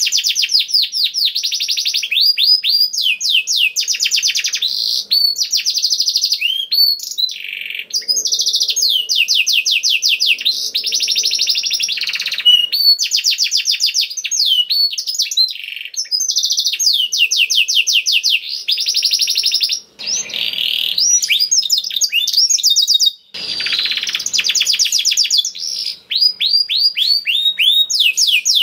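Male canary singing a long, continuous song of rapid trills and fast repeated notes, changing from one trill type to the next with only brief pauses.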